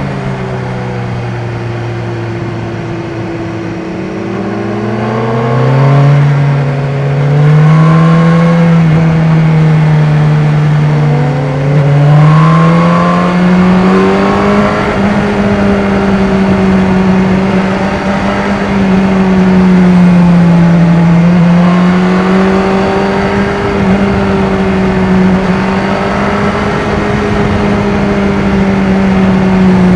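BMW S1000R inline-four engine and exhaust on the road, pulling up in pitch twice as the bike accelerates, then holding a steady, higher note at cruise.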